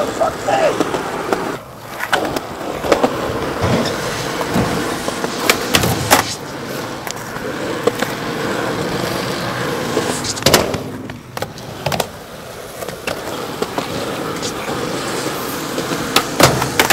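Skateboard wheels rolling on pavement in a steady rumble, broken several times by sharp clacks of the board hitting the ground, the loudest near the end.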